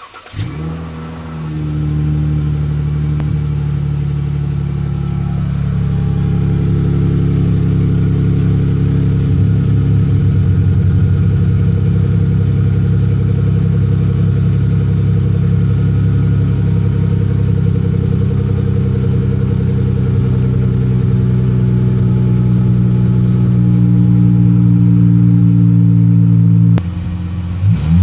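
The 3.6-litre V6 of a 2016 Dodge Challenger SXT Plus, breathing through a custom Flowmaster exhaust (Super 40 mufflers in the mid pipe, Super HP-2 mufflers replacing the rear resonators), starts up with a brief flare and then idles steadily. Near the end it drops suddenly to a quieter note.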